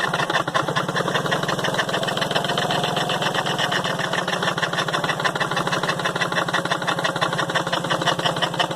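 Motorcycle engine running steadily while driving a water pump, a fast, even stream of firing pulses.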